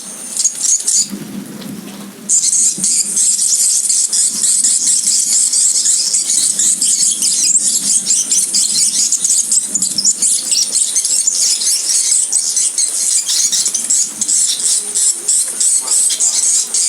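Dense, continuous high chirping of swiftlet calls played through tweeter speakers to lure swiftlets into the nesting house. It breaks off briefly about a second in, when a low hum is heard, then resumes.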